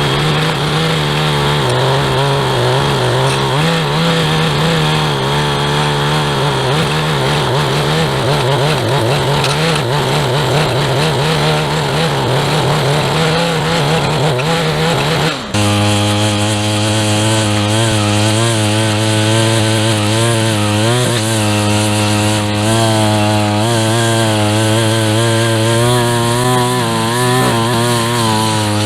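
Small high-revving two-stroke engine of a handheld lawn tool running steadily at working speed. About halfway through it breaks off abruptly and carries on at a lower, steadier pitch.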